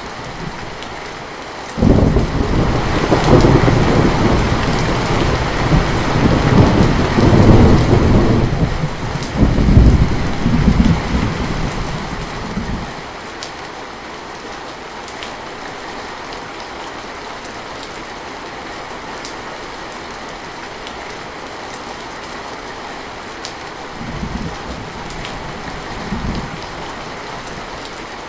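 Heavy rain pouring steadily, with a thunderclap about two seconds in that rolls on for some ten seconds before fading. Two short, faint low rumbles of thunder come near the end.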